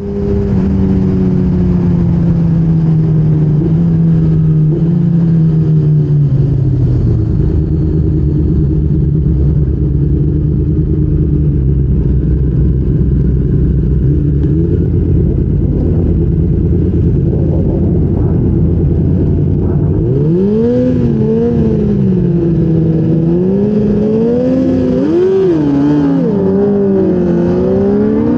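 Engine of a 1000cc racing motorcycle heard onboard. Its pitch slides down over the first several seconds, then it runs low and steady, and from about twenty seconds in it is revved up and down again and again.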